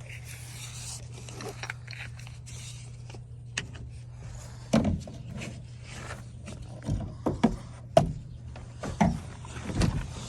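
Scattered knocks and light scrapes of a part and screws being worked by hand on a pickup truck, over a steady low hum. The knocks start a few seconds in and come irregularly, about half a dozen of them.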